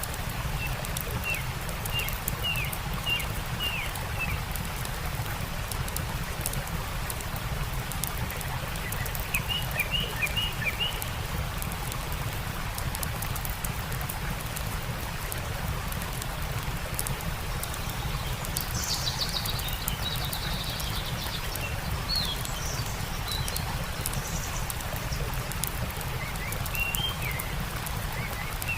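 Stream running steadily with a campfire crackling, and small birds chirping in short bursts: a few near the start, a cluster about ten seconds in, a higher-pitched phrase past the middle and more near the end.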